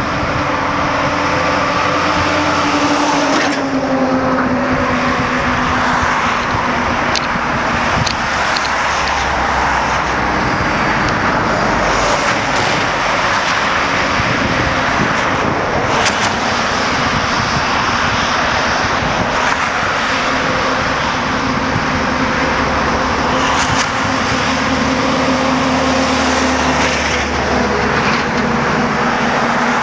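A motor vehicle's engine running under a continuous rushing noise. Its hum drops in pitch a few seconds in and rises again near the end.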